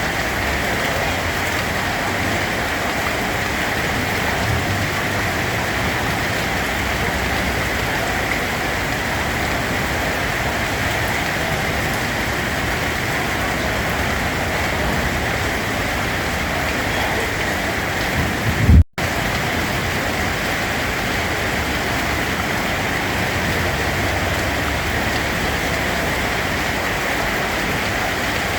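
Steady rain falling, an even, continuous hiss of drops. About nineteen seconds in there is a brief low thump, and the sound cuts out for an instant before the rain carries on.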